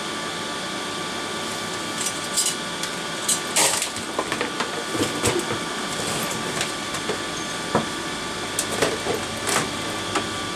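Fume extractor fan running steadily, with scattered short clicks and knocks from tools being handled on the workbench.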